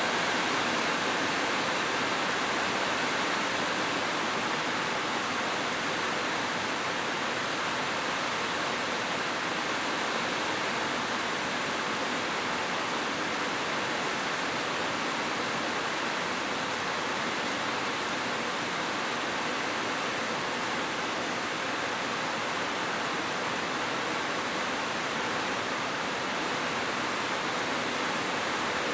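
Heavy rain falling steadily, a dense, even wash of sound with no single drops standing out.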